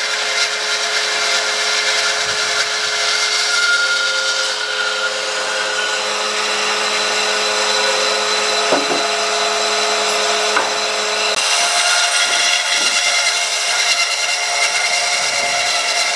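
A power tool running steadily on hardwood, with a constant motor whine under the noise of the wood being worked. The sound changes abruptly about four and eleven seconds in.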